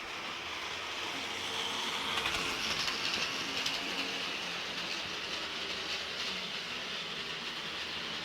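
HO scale model train running along the track, a steady whirring hiss that swells slightly about two to four seconds in.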